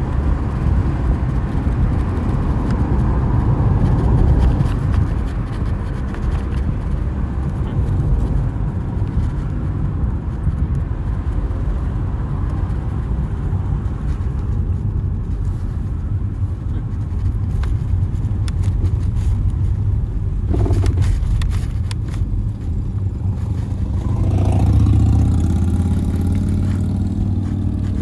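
Engine and road noise of a moving car heard from inside the cabin: a steady low rumble that grows louder for a couple of seconds near the end.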